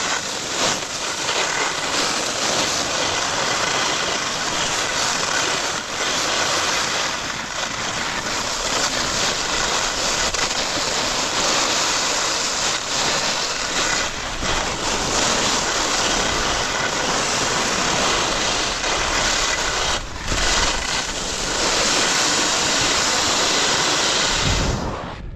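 Skis side-slipping down a hard-packed race course, the edges scraping the snow in a continuous loud hiss with wind rushing over the microphone. It fades off sharply near the end.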